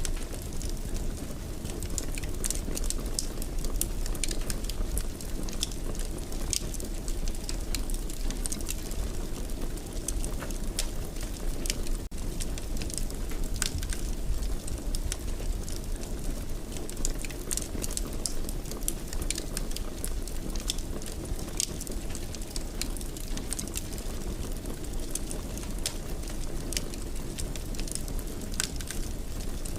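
Wood fire in a fireplace burning with frequent, irregular sharp crackles and pops over a steady low rumble of the flames.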